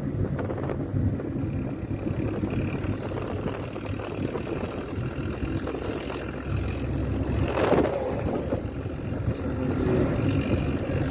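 Heavy truck on a highway, its diesel engine running with a steady low drone; about eight seconds in, a louder swell of noise rises briefly as a vehicle passes close.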